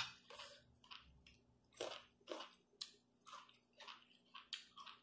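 Faint close-up chewing of spicy chicken-foot salad, in short irregular mouth sounds a few times a second.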